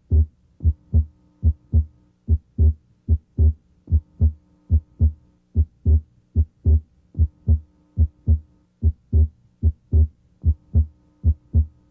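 Heart sounds heard through a stethoscope's diaphragm at the left second interspace: a steady rhythm of short low lub-dub thuds, with S2 abnormally widely split, the split widening and narrowing with the patient's deep breathing. A faint steady hum lies under the beats.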